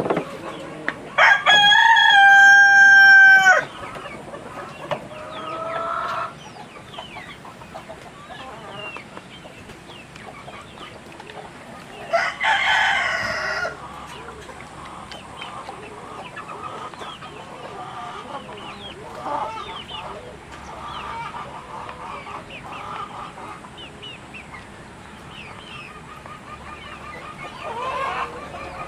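Chickens: a rooster crows loudly about a second in, a long held call, and crows again, rougher, near the middle, while hens cluck softly throughout.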